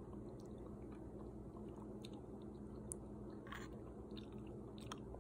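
Faint chewing and small wet mouth clicks of someone eating a spoonful of millet and bean soup, over a low steady hum.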